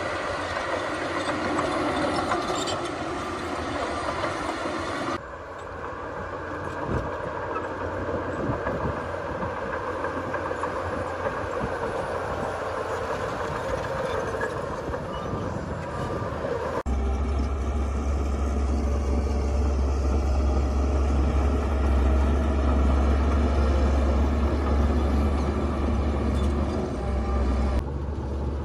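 Diesel engines of heavy earthmoving machinery running under work, with a mechanical clatter and whine. The sound changes abruptly about five seconds in and again a little past the middle, after which a deep, steady engine rumble is loudest.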